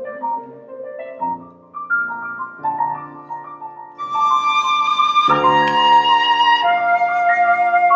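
Flute and piano playing a contemporary classical chamber piece: a flute melody of held notes over piano chords, getting louder about halfway through.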